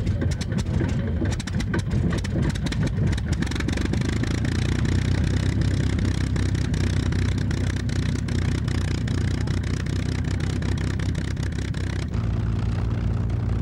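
Piston engine of a World War II fighter aircraft running loud and steady, with a rough, uneven crackle in the first few seconds. The sound changes abruptly near the end.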